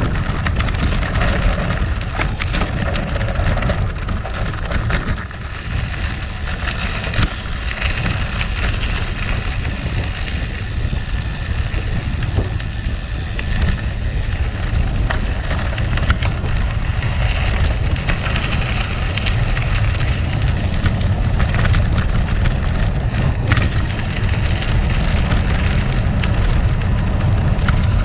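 Gravel bike tyres rolling over rough gravel: a steady crunching rumble with scattered small clicks and rattles, and wind buffeting the microphone.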